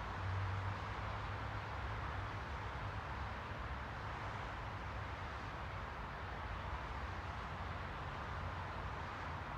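Steady, even background noise with a low hum underneath, running without a break.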